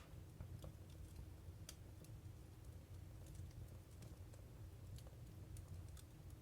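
Wood fire crackling inside a Jøtul F305 cast-iron wood stove: faint, irregular small pops and ticks from the burning logs over a low steady rumble.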